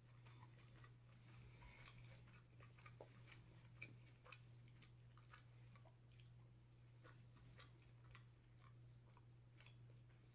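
Faint close-up chewing and small mouth noises of a person eating, with scattered light clicks of a fork against the plate, over a steady low hum.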